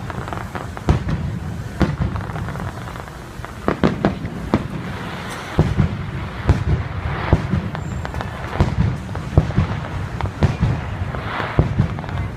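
Fireworks show bursting overhead: an irregular string of sharp bangs and booms, at times several a second, with stretches of crackle later on.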